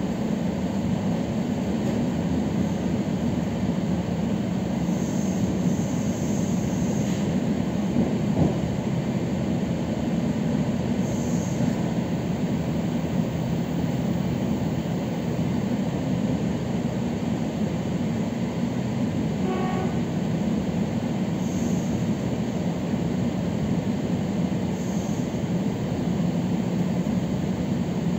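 Steady rumble inside a moving electric commuter train carriage: wheels rolling on the rails and the car's running noise, with a single short knock about eight seconds in.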